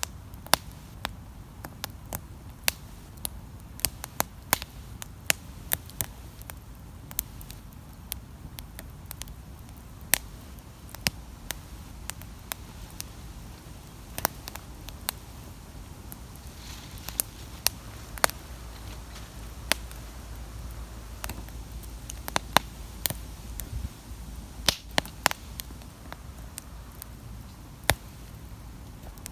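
Wood campfire crackling: irregular sharp pops and snaps, some loud, over a low steady rumble, with a brief hiss about seventeen seconds in.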